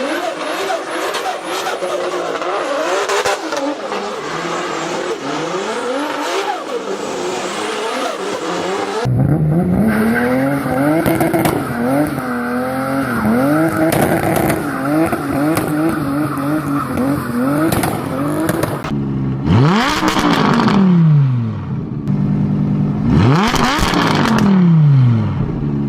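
BMW E30 M3 four-cylinder engine revving hard through several cuts: first under a burnout with tyre squeal, then held at high revs with quick rises and dips, and near the end two sharp rev-ups that each fall away.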